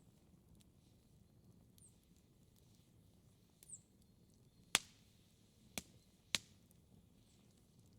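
Wood fire burning quietly with a low rumble and scattered faint crackles, then three sharp pops from the burning logs about a second apart a little past the middle.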